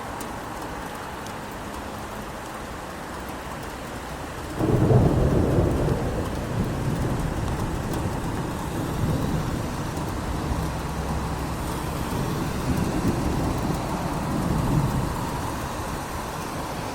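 Steady rain falling, then a sudden crack of thunder about four and a half seconds in that rolls on as a low rumble with several swells for about ten seconds, easing off near the end.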